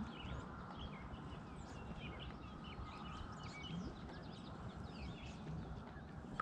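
Several songbirds chirping and singing, many short overlapping calls and trills throughout, faint over a low steady background rumble.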